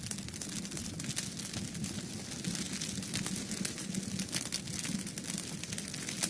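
Fireplace wood fire crackling steadily, a dense run of irregular small pops and snaps over a low rumble of the flames.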